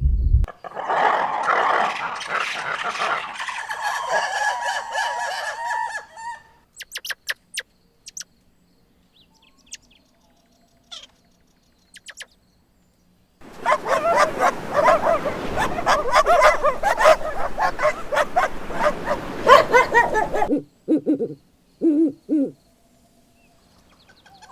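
Animal calls in separate bursts: a dense stretch of calls, a few clicks, a second long dense stretch, then three short low calls near the end.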